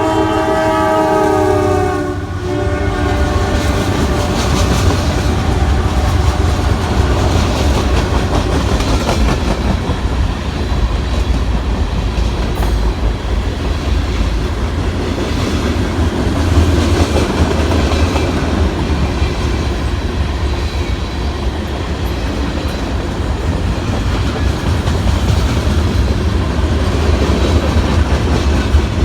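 Norfolk Southern freight train's locomotive air horn sounding a chord, which cuts off about two seconds in. The rest is the loud, steady rumble and wheel clatter of the manifest train rolling past on the rails.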